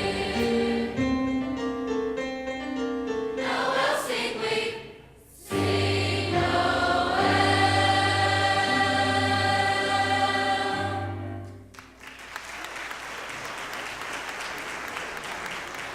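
Large high school choir singing the close of a Christmas song, ending on a long held final chord that cuts off about twelve seconds in. The audience then breaks into applause.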